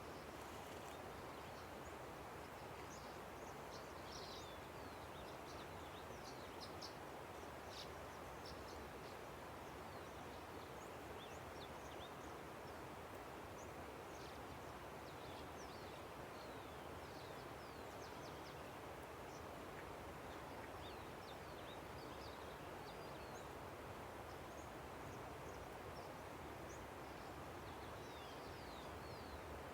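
A river's steady rushing, with many short, high bird chirps scattered over it.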